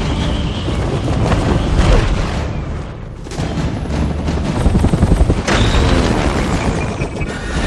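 Action-film effects mix: heavy booms and rapid gunfire over a continuous deep rumble, with a quick run of strikes about two-thirds of the way through.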